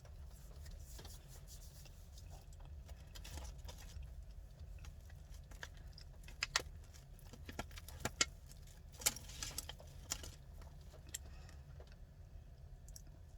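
Faint scattered clicks and light rustles of someone eating french fries, over a low steady hum. The clicks are most distinct between about six and ten seconds in.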